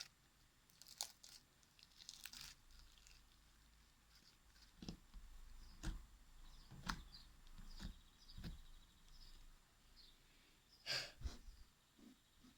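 Stiff clear-glue slime being kneaded and pulled apart by hand: faint, scattered sticky clicks and small tearing pops, with a louder pair about eleven seconds in.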